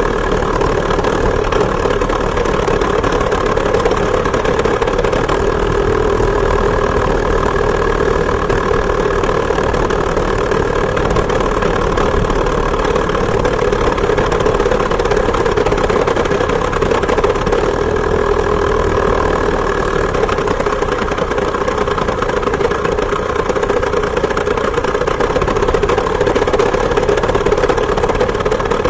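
Two-stroke chainsaw engine of a homemade moped running steadily at an even pitch.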